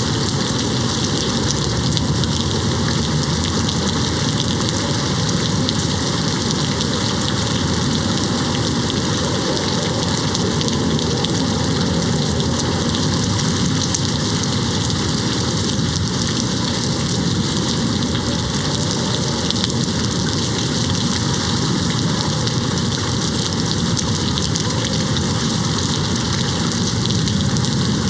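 Steady rain falling on a window glass, an even unbroken hiss without thunder claps.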